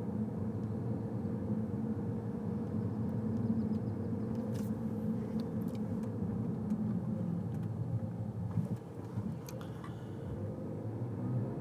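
Car road and engine noise heard from inside the cabin while driving: a steady low rumble that eases briefly about two-thirds of the way through, with a few faint clicks.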